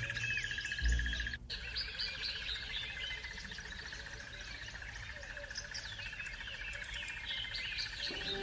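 Many birds chirping and calling over a steady, finely pulsing high trill. There is a brief low thud about a second in.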